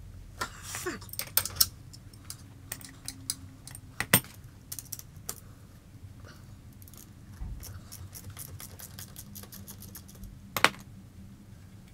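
Metal hand tools clinking and clicking against the motorcycle's exhaust fastenings as they are worked loose: irregular sharp metallic clicks, with a loud knock about four seconds in and another near the end.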